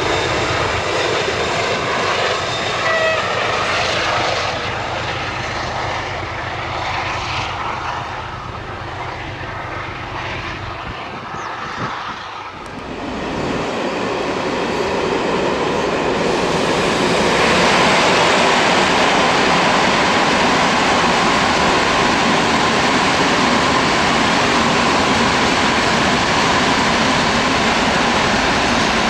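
A heavy diesel locomotive engine drones steadily as a freight train passes. About midway there is an abrupt change, and the loud, even rolling and rumbling of a long string of hopper wagons going by takes over.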